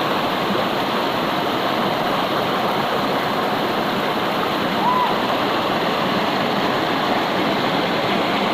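Steady rush of flowing water from a forest stream and waterfall, with one brief high tone about five seconds in.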